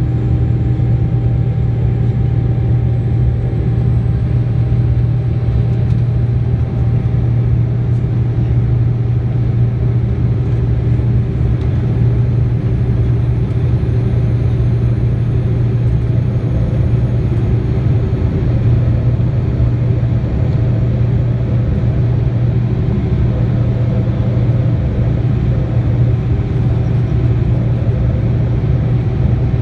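Steady cabin drone of a Boeing 787-9 jetliner heard from inside the passenger cabin: engine and airflow noise with a strong low hum and a faint high whine that rises slowly.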